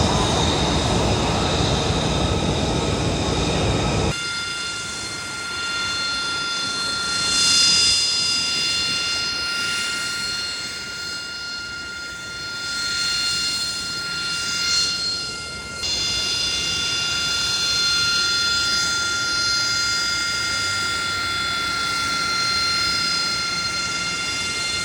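Aircraft engines at an airshow: a loud roar for the first few seconds, then a steady high-pitched whine with a rushing noise that swells and fades as aircraft pass, changing abruptly twice.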